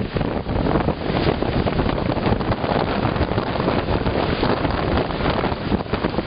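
Storm-force wind blasting the microphone, a loud continuous rush that swells and dips with the gusts.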